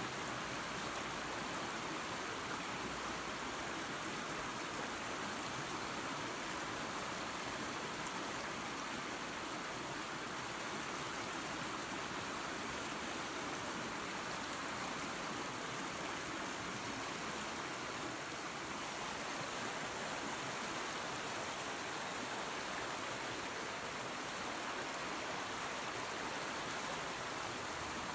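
Waterfall and creek running: a steady, even rush of falling and flowing water.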